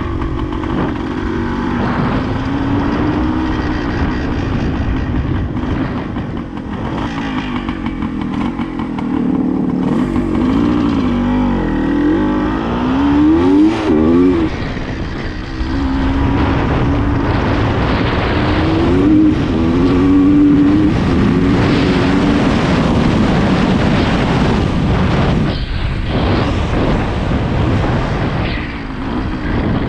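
Suzuki TS400 Apache's single-cylinder two-stroke engine under way, its pitch climbing and dropping again and again as the bike accelerates and shifts through the gears, with the sharpest climbs about halfway through.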